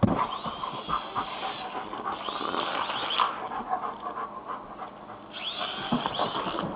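German shepherd panting, with scuffling and clicks and a thump at the start. A high whine comes and goes twice.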